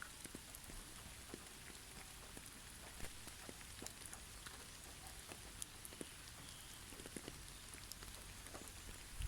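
Light, irregular patter of drops ticking onto surfaces over a soft steady hiss.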